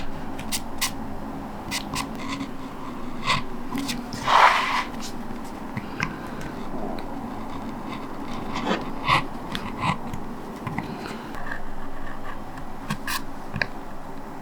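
Linoleum cutter carving a lino block: scattered small clicks and short scraping strokes of the blade, with one louder, longer scrape about four seconds in.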